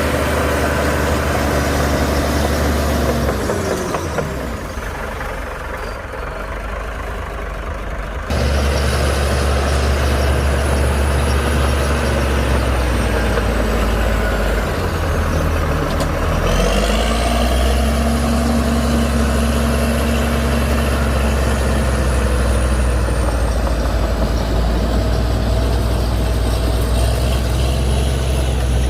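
Heavy diesel engine of earthmoving machinery running hard, with a high whistle that glides down and back up as the engine speed changes. The engine drops to a lower, quieter note about four seconds in and comes back to full power abruptly about eight seconds in.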